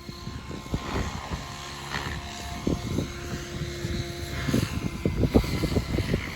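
Radio-controlled model helicopter flying 3D manoeuvres, its rotor and motor pitch rising and falling, with gusts of strong wind buffeting the microphone that grow heavier in the second half.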